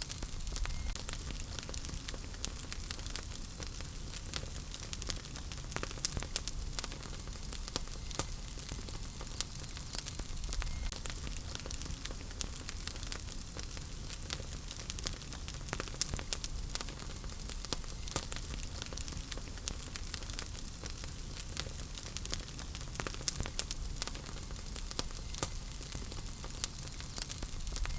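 Wood fire in a fireplace crackling: a steady hiss with many small irregular pops and snaps throughout.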